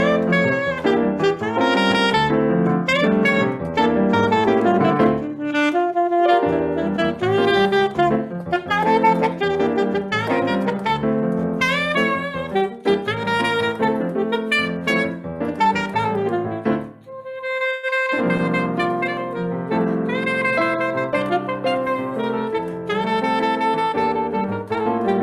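Saxophone playing a melody live over band accompaniment with piano, in a Brazilian jazz style. About two-thirds of the way through, the band briefly drops out and leaves a few held notes before the full ensemble comes back in.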